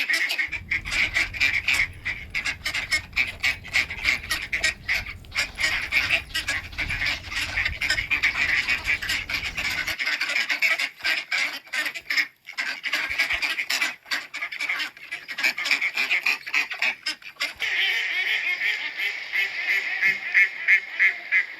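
A large flock of domestic ducks and geese calling continuously, many short quacks and honks overlapping into a dense chatter.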